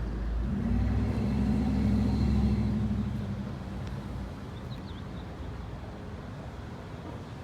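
A motor vehicle's engine passing close by: it comes up quickly, is loudest about two seconds in, then fades into a steady low rumble.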